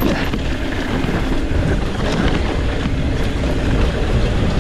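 Wind rushing over the microphone of a mountain biker riding fast down a dirt trail, with the tyres rolling over rough ground and small scattered knocks from the bike.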